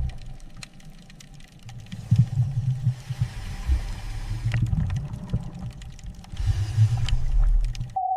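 Underwater rumble of an ROV's thrusters as it backs away: an uneven low drone that swells about two seconds in and again near the end, with scattered faint clicks and a faint steady tone above it.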